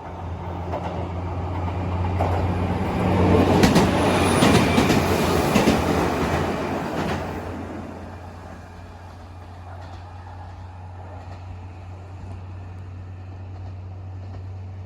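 Diesel local train crossing a steel railway bridge: the rumble and clatter of wheels over the rail joints builds, peaks about four to seven seconds in as it passes, then fades. A steady low hum runs underneath throughout.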